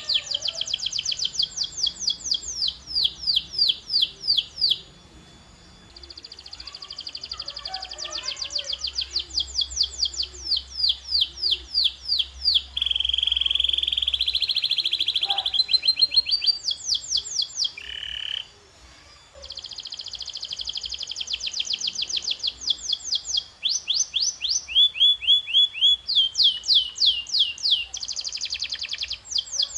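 Domestic canary singing: series of quick, evenly repeated high sweeping notes (trills or rolls), one phrase after another. About halfway through it sings a longer unbroken, lower roll, and the song pauses briefly twice.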